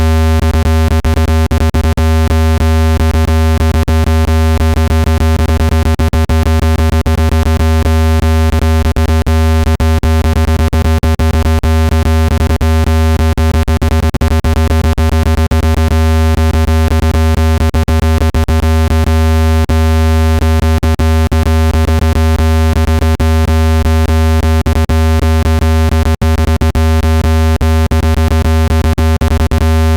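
Synthesized speaker-cleaning tone: a loud, steady low hum with fainter steady higher tones layered above it and a rapid, irregular crackle of clicks throughout, meant to vibrate dust out of a phone speaker.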